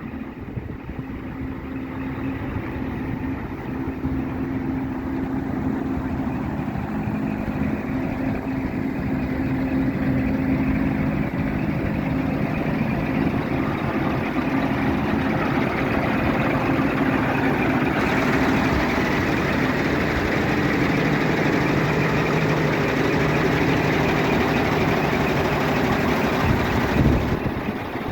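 Scania R 420 truck's six-cylinder diesel engine running steadily, growing louder over the first several seconds and then holding an even note.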